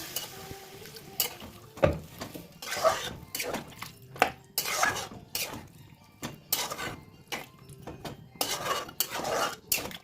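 A spoon stirring chicken curry in a cooking pot, scraping and clinking against the pot's sides and bottom in irregular strokes, about one or two a second, as the water just added is worked into the fried masala and meat.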